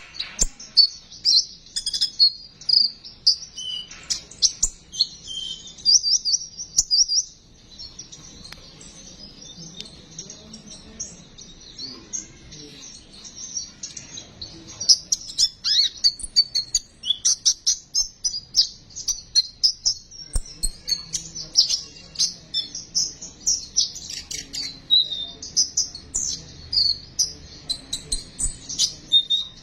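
Konin bird singing its besetan: rapid runs of short, high chirps and trills. There is a quieter stretch about a quarter of the way through, then the chirping grows dense again.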